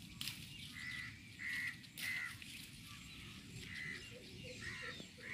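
A bird calling outdoors: about five short calls spaced irregularly over a few seconds, over a low steady rumble.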